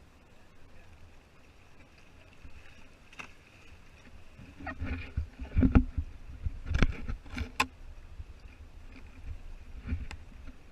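Water slapping and knocking against a Hobie Tandem Island kayak's hull, with a cluster of sharper knocks and splashes in the middle and another near the end, over a low steady rumble.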